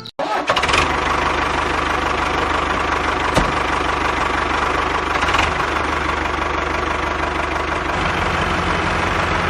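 Tractor engine idling steadily with a regular low chugging pulse, and one sharp click about three and a half seconds in.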